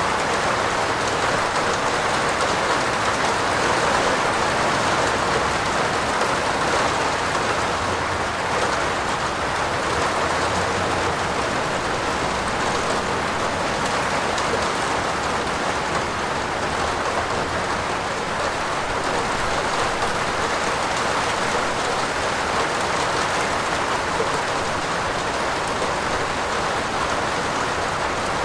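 Steady rain falling on a roof: a dense, even patter of drops that holds at one level throughout.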